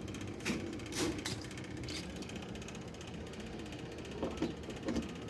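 Hands plugging in and handling an amplifier and its test leads: a few sharp clicks and knocks in the first two seconds and lighter ticks near the end, over a faint steady low hum.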